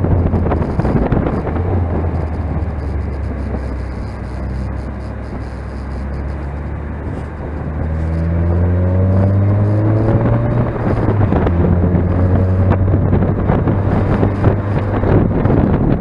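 Mazda MX-5 four-cylinder engine heard onboard under a steady rush of wind. The note runs softer for a few seconds, then rises steadily as the car accelerates, drops about eleven seconds in and holds.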